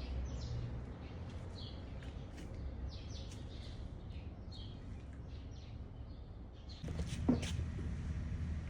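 Small birds chirping in short calls over a steady low rumble, with a sharp click about seven seconds in.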